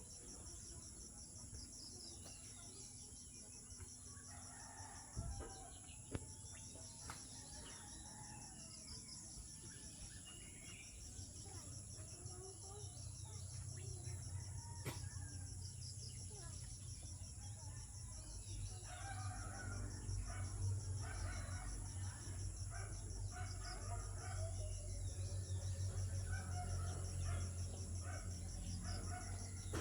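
A rooster crowing in the second half, long calls that end in a falling glide, over a steady high chirring of insects. A low rumble grows louder from about a third of the way in.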